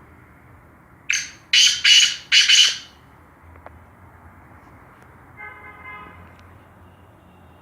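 Black francolin giving its call: four loud, harsh notes in quick succession about a second in, the whole phrase lasting under two seconds.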